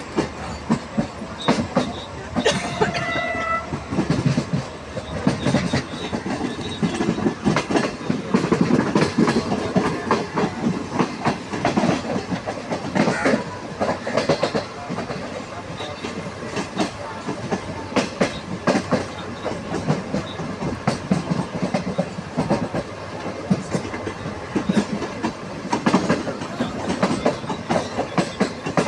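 Passenger train running at speed, heard from aboard a coach: steady rushing noise with the wheels clattering over the rail joints in quick, uneven clicks.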